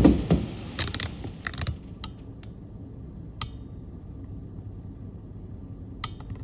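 Fireworks crackling and popping as a burst dies away: a cluster of crackles about a second in, then a few single sharp cracks spaced out over a low steady background rumble.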